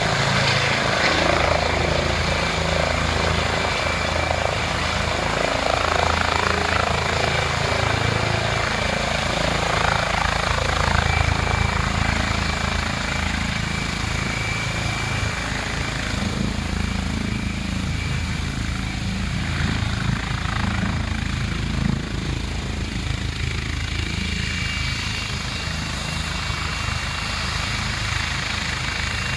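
Police helicopter flying, its rotor chop and turbine running steadily, with a thin steady high whine over the rumble. It grows a little quieter in the second half.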